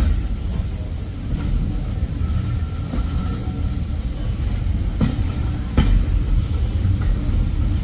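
A train running on the track: a steady low rumble with a handful of sharp clicks and knocks spaced irregularly through it.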